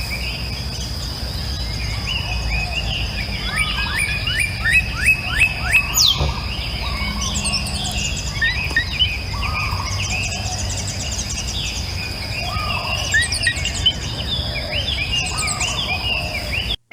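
A chorus of several birds calling and singing over a steady high-pitched insect drone and a low rumble. A quick run of about five falling notes comes a few seconds in. The whole soundscape cuts off suddenly just before the end.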